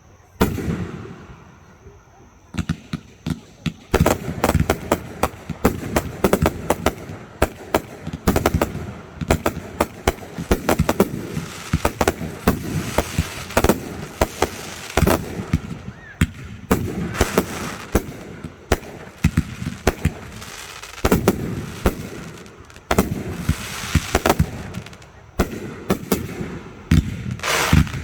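Fireworks display: a dense, rapid string of shell bursts and crackling, going on almost without break, with a short lull near the start and a couple of brief lulls later.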